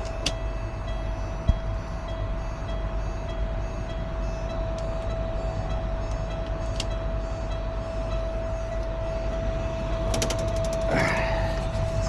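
Heavy diesel truck engine idling with a steady whine while the air brake system builds pressure. A quick run of clicks comes about ten seconds in.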